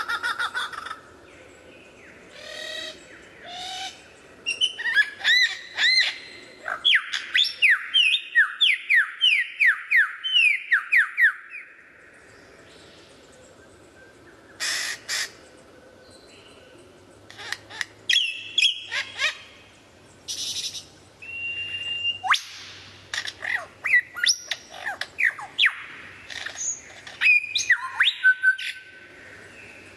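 Bird calling in bursts of chirps and whistles, with a fast run of quick rising chirps for several seconds, then scattered sharp chirps and short whistled notes.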